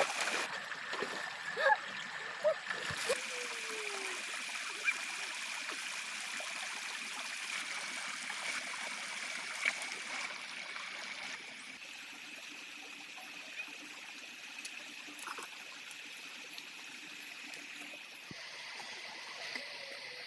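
Water running steadily, like a small stream trickling, with a few light clicks and knocks in the first few seconds and a steady high tone above it.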